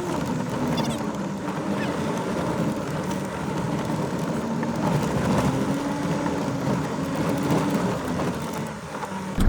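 Campervan engine running as it drives slowly, heard from inside the cab, its pitch drifting gently up and down over a steady road and tyre noise.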